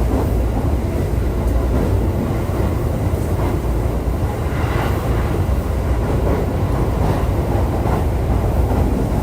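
JR East E531 series electric train running at speed, heard from inside the car: a steady low rumble of wheels on rail.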